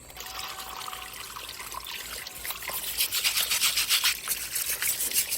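Water pushed by a small fountain pump trickling and splashing out of a hole drilled through a stone. It starts faint and gets louder and more splashy about halfway through.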